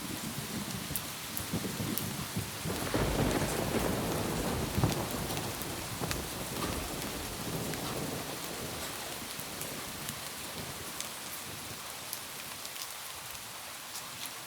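Steady rain with scattered drop ticks, and a roll of thunder that swells about three seconds in and slowly dies away.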